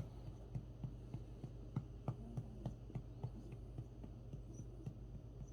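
A dog's faint, irregular wet mouth clicks over a steady low hum: licking and swallowing as the dog lies between coughing fits, seemingly trying to swallow down something caught in its throat.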